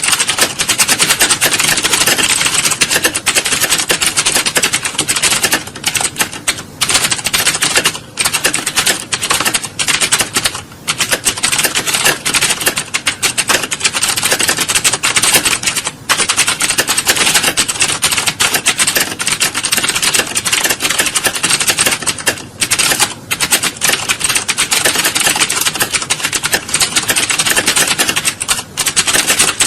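Computer keyboard typing: a dense, continuous clatter of key presses with only brief pauses, like an exam hall during a typing test.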